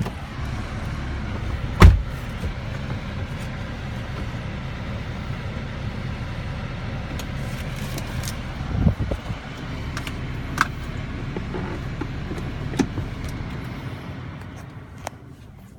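Steady running noise of a car heard from inside its cabin, with one loud thump about two seconds in and a few light clicks later; the noise fades away near the end.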